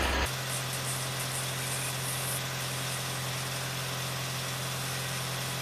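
Vehicle engine idling with a steady, even hum.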